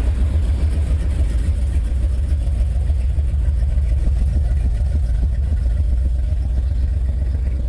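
A motor vehicle engine running with a steady, heavy low rumble.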